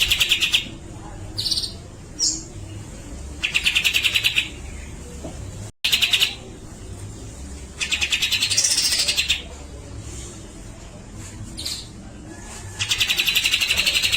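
Grey-cheeked bulbul (cucak jenggot) calling in harsh, rapid rattling bursts about a second long, repeated five times, with short single notes in between.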